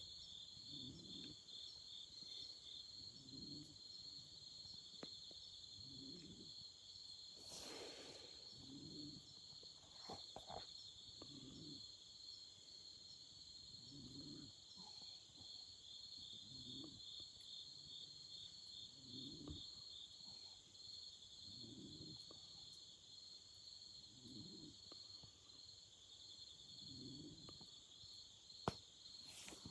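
Autumn insects chirping in continuous, fast-pulsing trills, with a few crackles from a wood fire and one sharp pop near the end. A soft low sound recurs about every two and a half seconds underneath.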